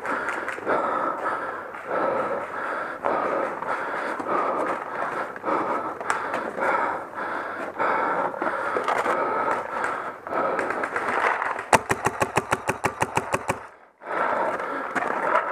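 A paintball marker firing a rapid string of about twenty shots in two seconds, about twelve seconds in. Before that, rhythmic movement and breathing noise pulses about every half second.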